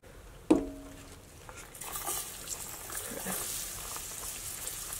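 Diced onions hitting hot dark roux in a cast-iron skillet, setting off a sizzle that starts about two seconds in and holds steady. A short knock with a brief ringing tone comes about half a second in.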